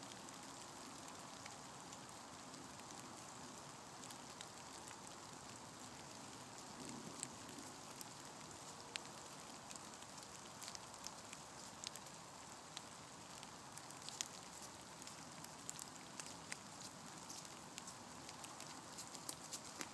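Light rain falling, a faint steady hiss with scattered raindrop ticks.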